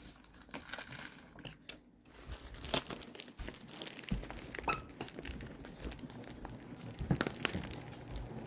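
Packaging being crinkled and torn by hand while a delivery box is unpacked: irregular rustling and crackling with short tearing sounds.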